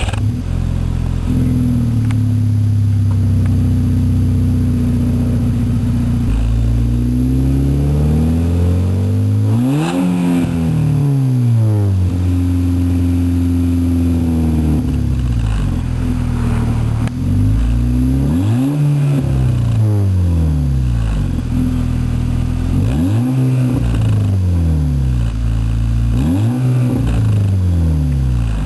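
Volkswagen Mk5 GTI's turbocharged 2.0-litre four-cylinder idling through an APR Stealth 3-inch stainless-steel turboback exhaust, revved once long and smoothly about a third of the way in, then blipped several times in quick short revs in the second half, settling back to idle between each.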